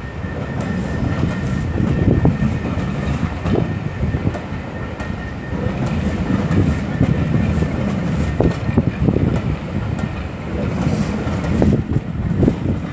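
Steam-hauled train moving out of a station behind Bulleid Merchant Navy class locomotive 35018: a steady heavy rumble with irregular clatter of wheels on the rails. A faint high steady whine runs through the first nine seconds or so.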